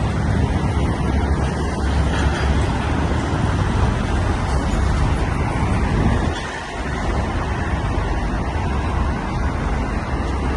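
Steady road-vehicle and traffic noise with a heavy low rumble, dipping briefly about six seconds in.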